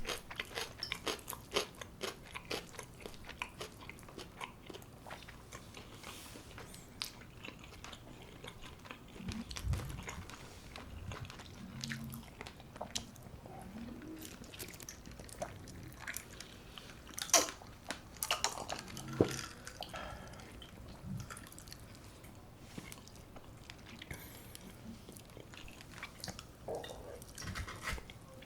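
Close-up eating sounds: biting and chewing crispy brown-rice-crusted baked chicken, with dense crisp crunches in the first few seconds, then slower, sparser chewing and a few louder crunches about two-thirds of the way through.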